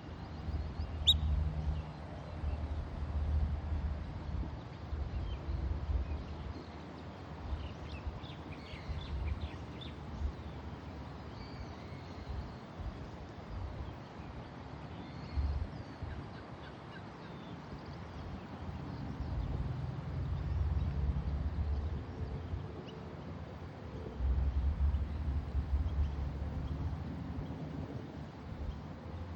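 Birds giving faint, short chirping calls over a loud low rumble, with one sharp click about a second in.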